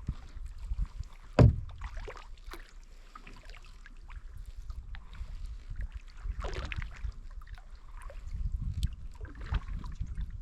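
Kayak paddle strokes swishing and splashing through the water, with a low rumble of handling and wind on the microphone. A single sharp knock about a second and a half in is the loudest sound.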